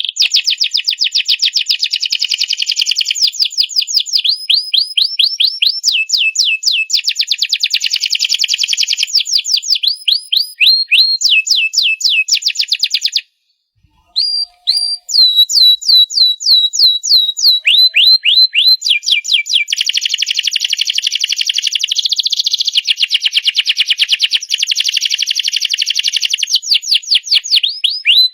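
Domestic canary singing a long, continuous song of rapid repeated trills and chirping phrases, switching from one phrase type to the next every second or two, with a brief pause about halfway through.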